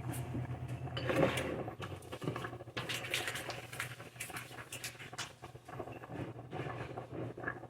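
Kitchen handling noises: light clicks, taps and rustling, with a steady low hum that stops about two seconds in.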